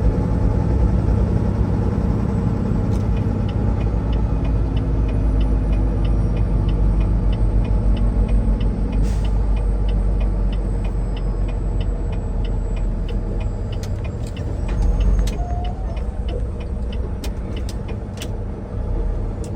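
Semi truck's diesel engine running steadily, heard from inside the cab while pulling in, with a fast regular ticking of the turn signal for several seconds in the middle and a few sharp clicks near the end.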